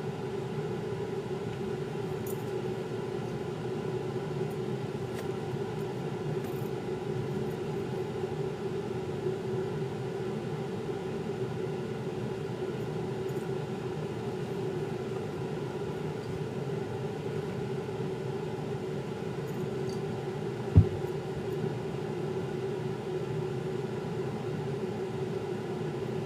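Steady mechanical hum from a running machine, with a single knock about 21 seconds in.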